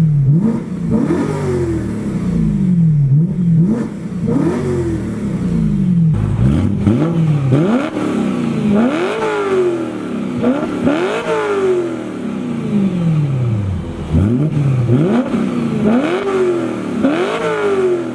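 BMW E90 M3's V8 on its stock exhaust, revved over and over: each blip rises sharply in pitch and falls back toward idle, about once a second.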